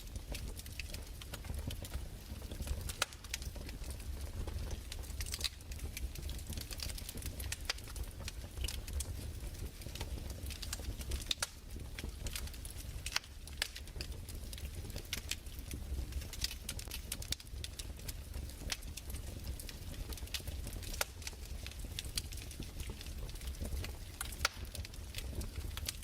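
Crackling fire: irregular sharp snaps and pops over a steady low rumble.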